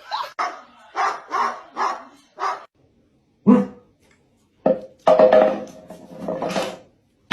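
A dog barking repeatedly: a quick run of five short barks, then a single bark, then longer barks near the end.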